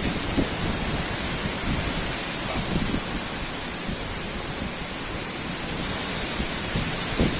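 Strong wind blowing steadily in a storm, with a high rain-like hiss and irregular low rumbles of gusts hitting the microphone.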